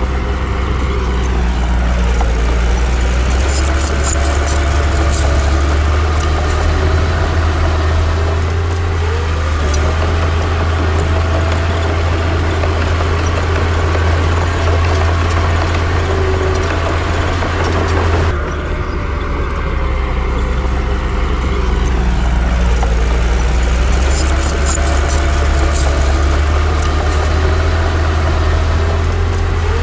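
A heavy diesel engine of earthmoving machinery runs with a deep steady hum, its pitch rising and falling as the throttle changes, with bursts of sharp metallic clicks in places. The sound shifts abruptly about eighteen seconds in.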